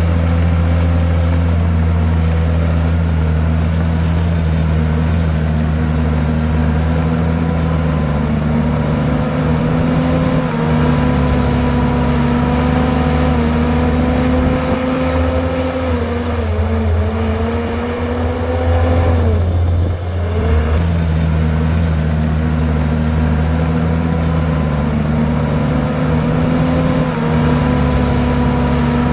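Komatsu bulldozer's diesel engine running steadily while working. About two-thirds of the way through, its pitch sags for a few seconds, dropping most sharply just before it picks back up.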